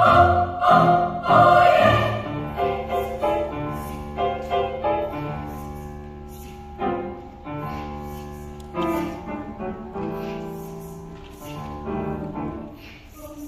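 Children's choir singing, loud at the start and growing softer through the passage.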